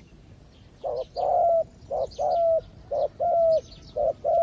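A decoy dove cooing over and over, starting about a second in: each phrase is a short note followed by a longer held coo that drops at its end, about one phrase a second. Faint chirps of small birds sound higher up.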